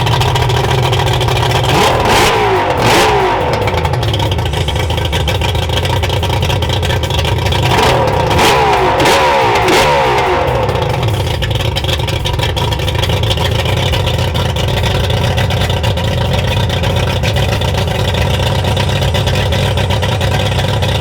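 Two-stroke outboard motor with a freshly swapped power head running steadily, revved up and back down twice, about two seconds and about eight seconds in. It is a test run with the ignition timing just set by ear.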